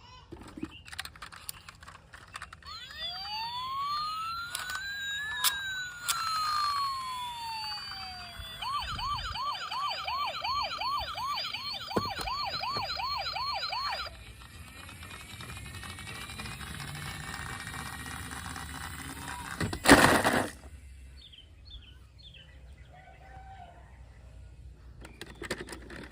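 Electronic siren sounding: a slow rising and falling wail, then a fast warbling yelp for about five seconds that stops abruptly. A loud thump comes near the end.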